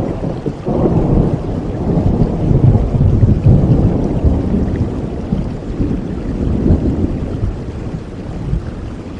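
Rolling thunder over rain: a low rumble that swells about a second in, peaks around the middle and slowly fades near the end.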